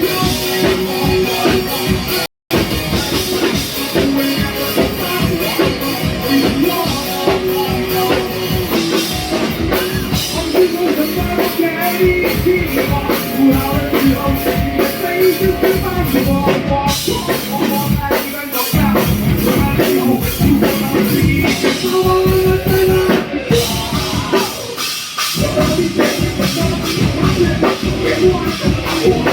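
Live rock band playing a song, a drum kit keeping the beat, with a momentary dropout to silence about two seconds in.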